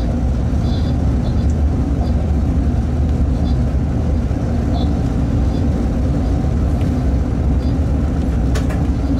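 Steady low rumble of a freight locomotive running at speed, heard from inside the cab, with a few short faint high hisses and a sharp click near the end.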